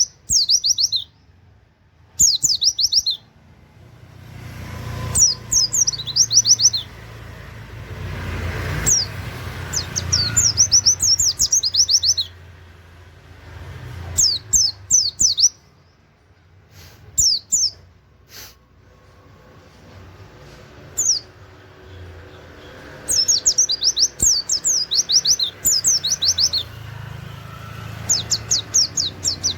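A white-eye (pleci) singing in repeated bursts of rapid, steeply falling high notes, each burst about a second long, in the fast 'shooting' style that copies a canary's 'wit wit' song. A low rumble of background noise runs underneath.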